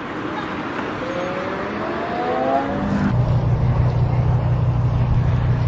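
A car engine accelerating, its pitch rising over a couple of seconds. About three seconds in, the sound cuts abruptly to a steady low drone.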